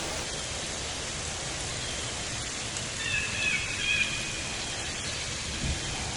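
Steady rain falling on forest foliage, an even hiss. A short high-pitched chirping call comes about three seconds in.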